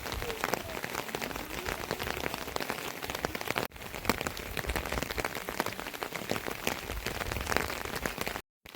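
Rain falling, with many separate drops striking close by over a steady hiss.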